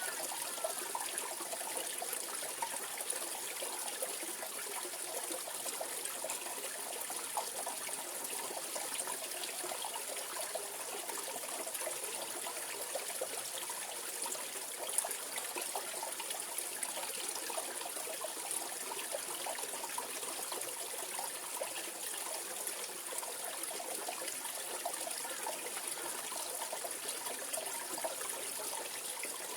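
Mountain valley stream running steadily, a continuous babble and trickle of flowing water.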